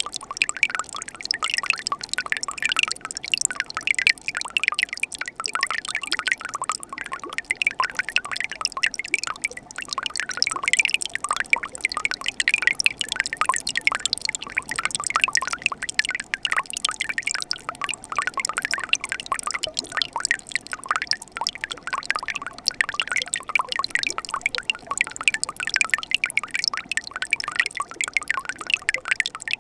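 Mountain stream babbling steadily in winter: a continuous dense run of small trickles, drips and splashes of running water.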